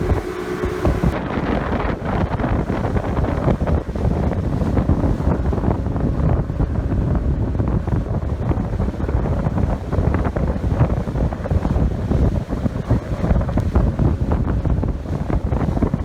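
Wind buffeting the microphone on a boat under way at sea, a loud, rough, fluttering rush throughout.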